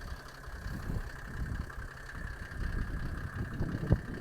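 Mercedes G-Class pickup's OM603 six-cylinder turbo diesel idling, with one sharp click about four seconds in.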